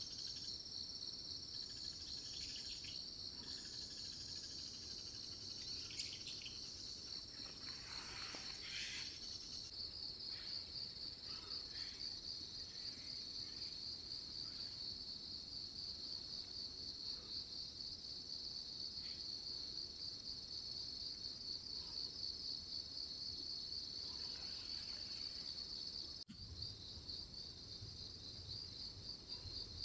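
Chorus of crickets and other singing insects chirring in a steady, high, finely pulsing trill.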